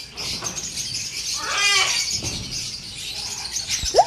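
A room full of caged parrots chattering and chirping over one another, with one louder, drawn-out call about halfway through and a short sharp call at the very end.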